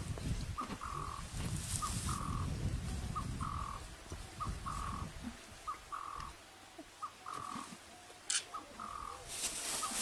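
A bird calling steadily: a short pip followed by a longer note at the same pitch, repeated about once a second. Under it is a low rumble that fades out about halfway, and a burst of hiss comes near the end.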